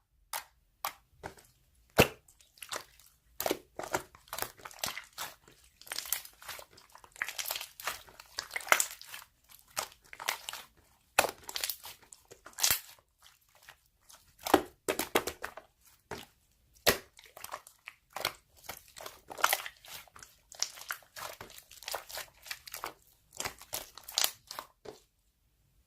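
Close-up crinkling and crunching of something being handled, in irregular quick crackles with short pauses, stopping about a second before the end.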